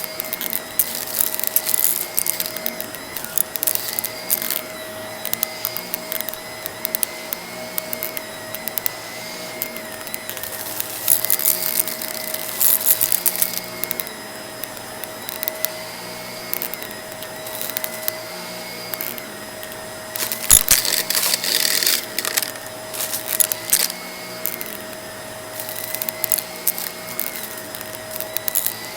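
Vacuum cleaner running on a rug, its whine dipping and recovering every couple of seconds, with crackling and rattling as crunchy debris is sucked up. The crackling is thickest a little past two-thirds of the way through.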